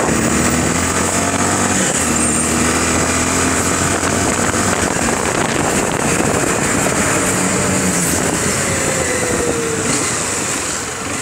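Small motorcycle engine running while riding in town traffic, its note stepping up and down with throttle and gear changes over a constant rush of road and wind noise. It eases off near the end as the bike slows.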